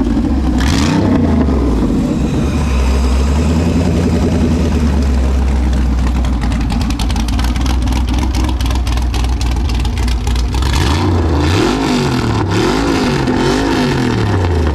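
Texas Speed 416 cubic-inch LS3 V8 running with a deep, steady exhaust note, then revved up and down several times in quick succession near the end.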